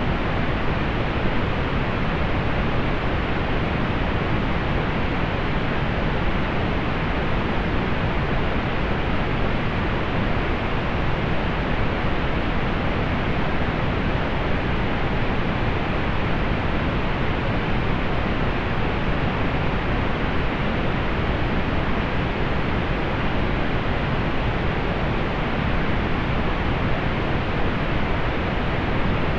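Steady synthetic pink noise: an even, unchanging hiss, fuller in the low end and rolled off in the highs.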